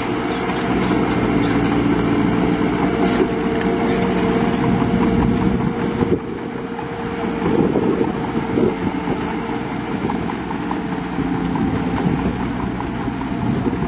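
Heavy-equipment diesel engine running steadily, its level dipping about six seconds in and picking up again.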